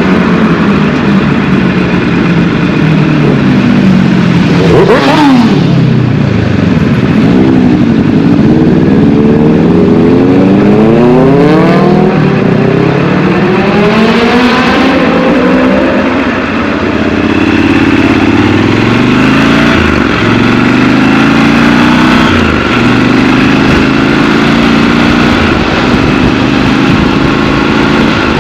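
Triumph Scrambler 1200 XC's parallel-twin engine heard from the saddle, revs climbing and dropping again and again as it pulls through the gears, then running more steadily at a cruise in the second half.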